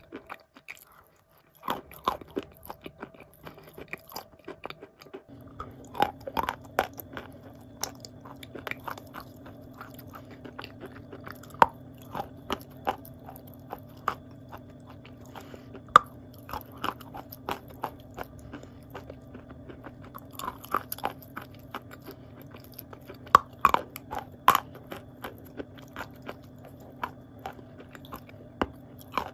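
Wet blue Uzbek clay being bitten and chewed: a soft crunch made of many quick crackles and clicks. A steady low hum joins about five seconds in.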